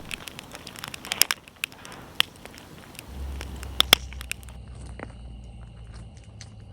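Wood campfire crackling with sharp pops, the loudest about a second, two seconds and four seconds in. A low steady hum comes in about three seconds in.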